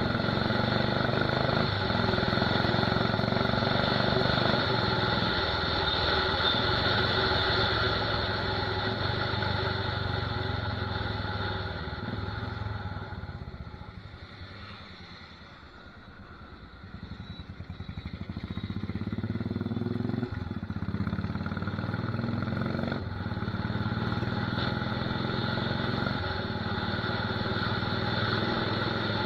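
Royal Enfield Desert Storm's 500 cc single-cylinder engine running through a loud aftermarket torpedo/megaphone silencer. Its sound fades to quiet about halfway through, then comes back up loud again.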